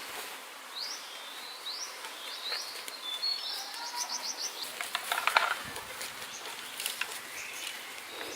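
Bird calls: short rising chirps every second or so, then a quick run of about six chirps around four seconds in. Scattered clicks and knocks throughout, with the loudest cluster about five seconds in.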